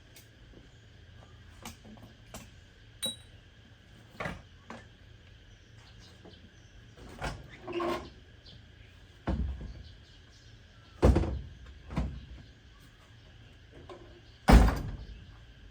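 A series of irregular knocks and thuds, about a dozen, each short, over a faint steady background hum. The heaviest come in the second half, and the loudest is near the end.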